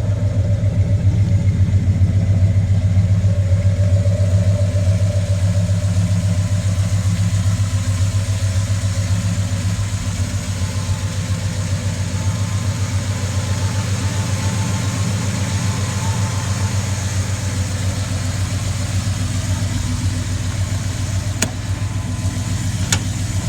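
1998 Chevy Silverado Z71's engine idling steadily with an even low pulse, with two sharp clicks near the end.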